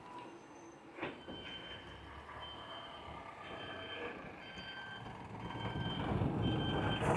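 An electronic beeper sounds a high beep about once a second, starting about a second and a half in. A click comes just before, and road or wind noise rises near the end.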